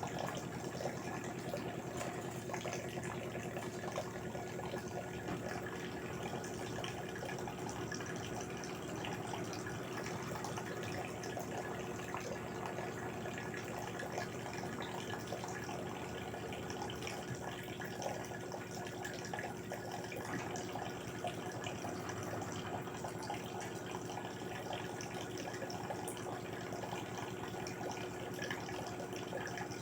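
LG 8 kg direct-drive front-loading washing machine with water running and splashing in its drum over a steady faint hum.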